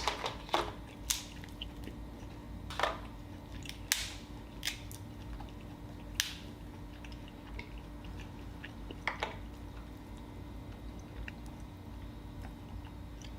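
Snow crab leg shells cracking and snapping, with chewing between the cracks. The cracks are sharp and come irregularly, most of them in the first six seconds and one more about nine seconds in.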